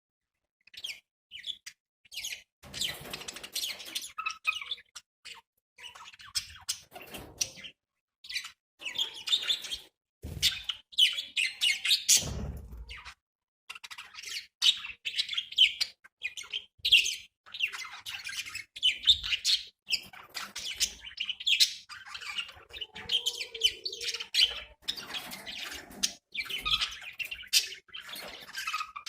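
Budgerigars chirping and warbling almost without pause, a dense run of short high chirps, with a couple of low thumps about ten and twelve seconds in.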